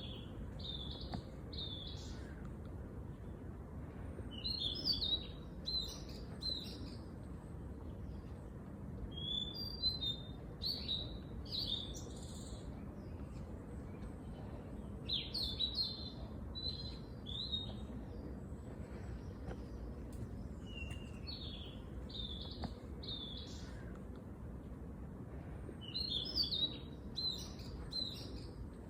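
A songbird singing short phrases of several quick high notes, each phrase about two to three seconds long and repeated every five or six seconds, over a steady low background rumble.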